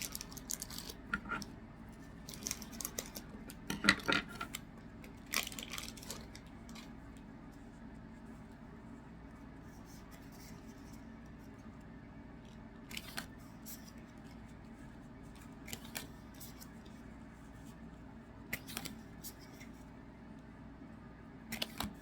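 Trading-card packs being opened and the cards handled: scattered crinkles and clicks of wrappers and cards, busiest in the first six seconds and then only now and then.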